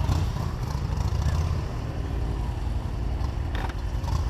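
Motorcycle engine running with a steady low rumble, under a constant rush of wind noise.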